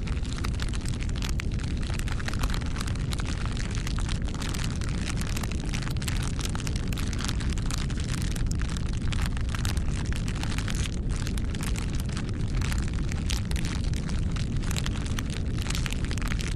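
Wood fire burning: a steady low rumble of flames with frequent irregular sharp crackles and pops from the burning wood.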